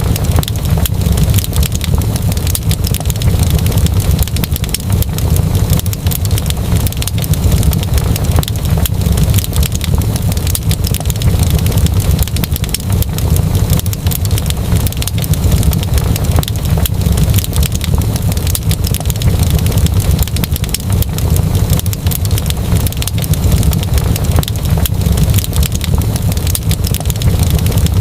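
Wood fire burning in a fireplace, with a steady low roar of flames under dense, rapid crackles and pops.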